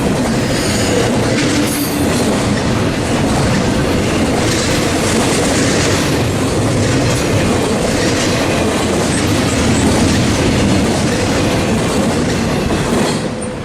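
A train rolling past close by: a loud, steady rumble of wheels on the rails with the clickety-clack of rail joints. The sound drops off sharply just before the end.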